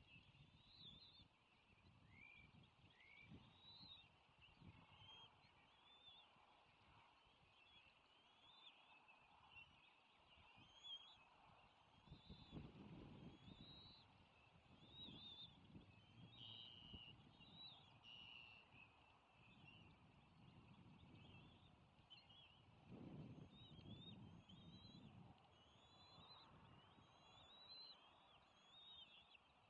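Faint bird chirping: many short, rising chirps in quick succession, with a couple of stretches of low rumbling about halfway and again near two-thirds through.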